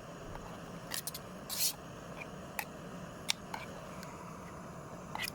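Camp cooking on a portable butane gas burner: a steady hiss, with a few sharp clicks and one short scrape about a second and a half in, like metal on a camping pot.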